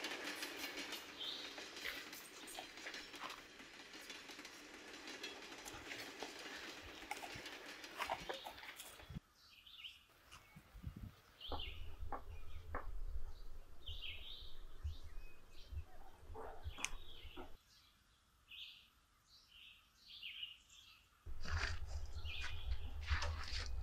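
Birds chirping in short, separate calls, about one a second, over a low rumble that comes and goes. The first nine seconds or so are a denser, steady hiss.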